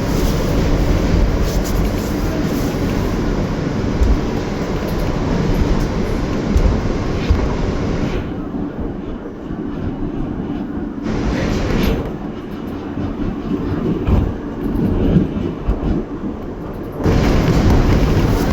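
New York City subway train running along the track, wheels and motors rumbling with some rail clatter. The noise eases and loses its hiss for several seconds in the middle, then picks up loud again near the end.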